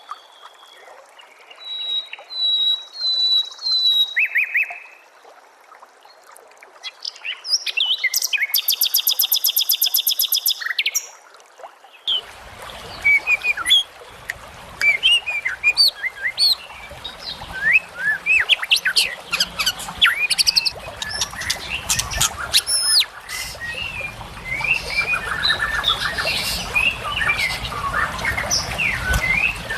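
Recorded songbird song: at first sparse whistled phrases and a fast buzzing trill, then about twelve seconds in an abrupt switch to a busy chorus of many chirps and whistles over a low rumble of background noise.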